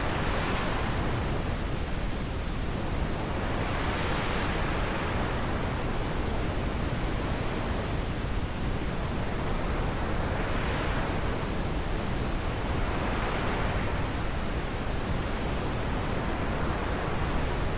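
Wind blowing steadily, with a hiss that swells and eases every few seconds as gusts come and go.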